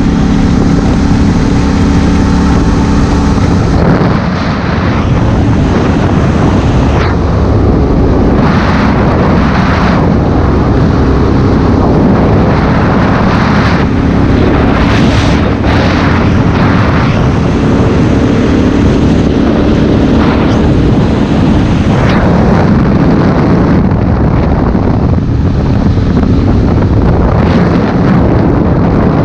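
Honda Africa Twin CRF1000L's parallel-twin engine running while riding. It is steady for the first few seconds, then mostly covered by heavy wind buffeting on the helmet-mounted camera, with gusts coming and going.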